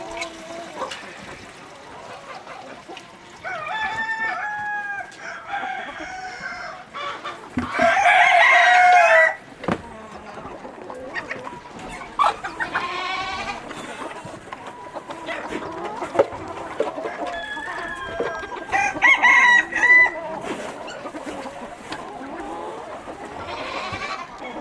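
Free-range chickens clucking, with a rooster crowing loudly about eight seconds in and another loud call about nineteen seconds in.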